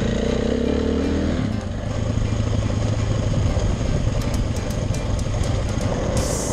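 Dirt bike engine revving up over the first second or so, then running steadily under way.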